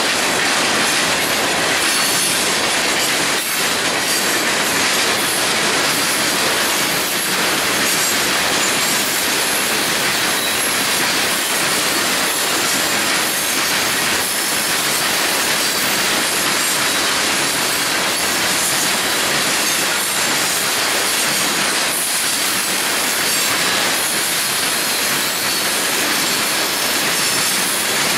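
A long freight train rolling past close by, its covered hoppers and lumber-loaded centerbeam flatcars making a loud, steady noise of steel wheels running on the rails.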